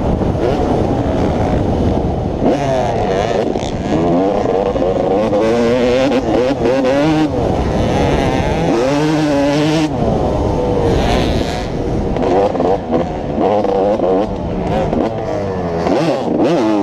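Motocross dirt bike engine being ridden hard, revving up and down again and again with brief drops in pitch between the climbs as the throttle is rolled off and on.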